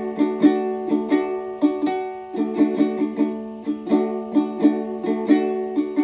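Instrumental music on a plucked string instrument such as a ukulele: a quick, even run of picked notes over a steadily held low note.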